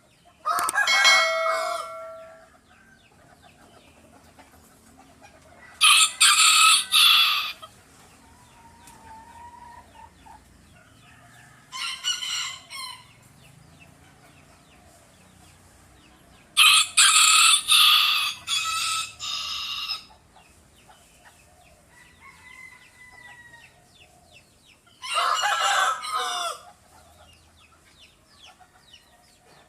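Chickens crowing and clucking in five loud bursts, each one to three seconds long, with quieter stretches between them.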